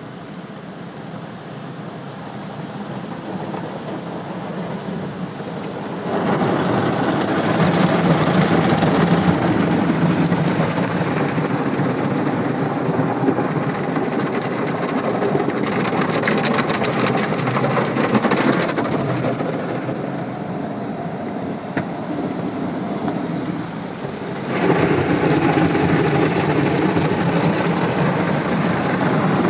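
Automatic tunnel car wash equipment spraying water and working over the car, a loud steady rush. It builds gradually, jumps louder about six seconds in, eases off for a few seconds around twenty seconds, then jumps up again near twenty-five seconds.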